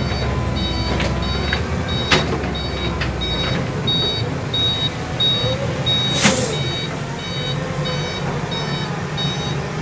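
Dump truck's reversing alarm beeping about twice a second over the steady running of its diesel engine as it backs up. A short hiss sounds about six seconds in.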